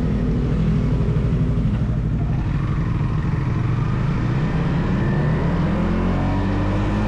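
Stock Yamaha XSR 155's single-cylinder engine running while riding, steady at first, then its pitch climbing over the last few seconds as the bike accelerates.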